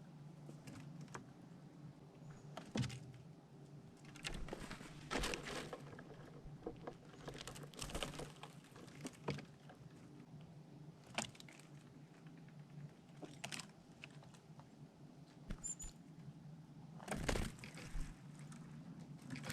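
Squirrel scratching and rustling at a forest feeder: scattered short scrapes and clicks, one every second or two, over a steady low hum.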